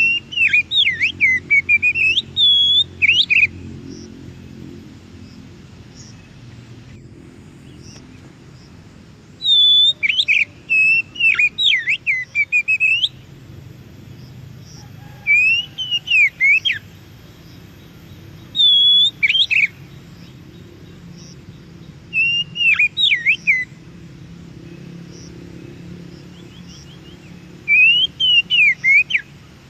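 Oriental magpie-robin (kacer) singing in six short bursts of rapid, sweeping high notes that slide up and down, with pauses of a few seconds between bursts. A faint low hum runs beneath.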